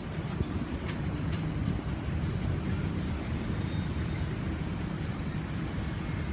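Train crossing the viaduct: a steady low rumble, with a few sharp clicks in the first second or so and a brief high hiss near the middle.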